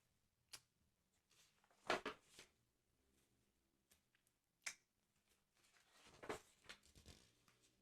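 Hands handling a paper sticker album close to the microphone: a few soft, scattered taps and clicks with brief paper rustles, the loudest around two seconds in and a longer rustle near the end.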